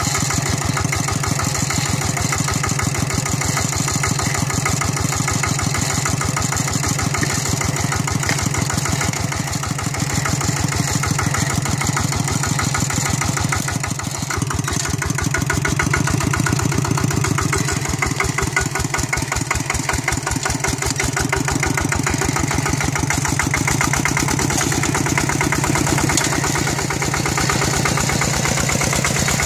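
Walk-behind tractor's single-cylinder diesel engine running steadily with a fast, even firing beat.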